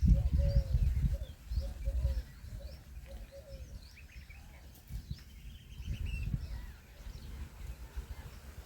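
Birds calling outdoors: a run of short, quick low chirps in the first couple of seconds, then scattered higher chirps, over a low rumble on the microphone that is loudest at the start.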